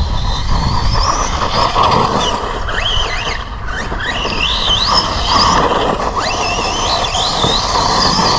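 Team Associated Rival MT10 RC monster truck running flat out on 3S, its brushless motor whining up and down in pitch with each burst of throttle over a constant rushing noise of tyres and wind.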